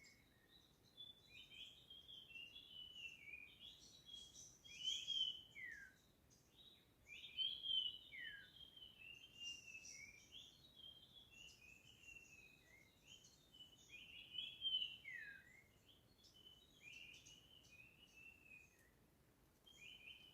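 Songbird singing a continuous string of short, varied chirping phrases with quick downward slurs, over faint background hiss. The song swells loudest about five, eight and fifteen seconds in.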